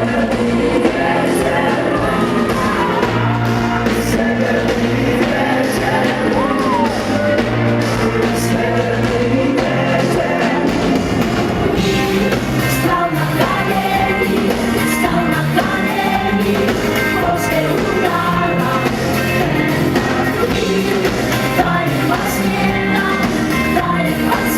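Live band performance with a woman singing over steady, loud music.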